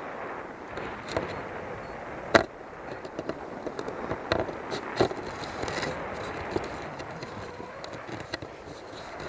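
Strong wind rushing over the microphone, with scattered sharp clicks and knocks, the loudest about two and a half seconds in.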